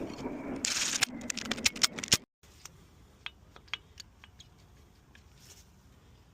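Hand-work noise of a brake job: scraping and sharp metallic clicks for about two seconds, then after a sudden cut only a few faint scattered clicks.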